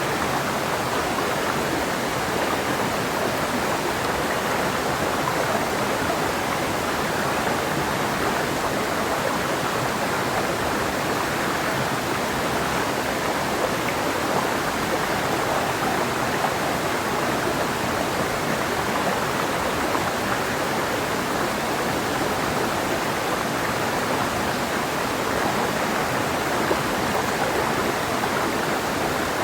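Clear mountain river flowing over rocks: a steady, unbroken rushing of water.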